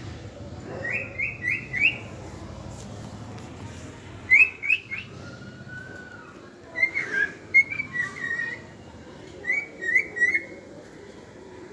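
Cockatiel whistling a song: quick runs of three or four short rising whistled notes, a long slower glide in the middle, then warbled phrases and another run of rising notes.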